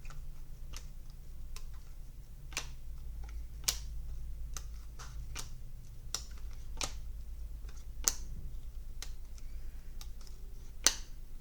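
Trading cards being flipped and slid off one another in the hand, giving a run of sharp, irregular clicks, with a few louder snaps. A steady low hum sits underneath.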